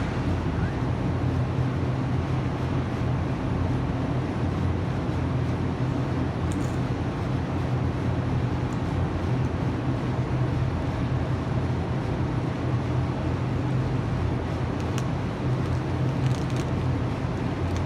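A steady low rumble with a hum, constant in level.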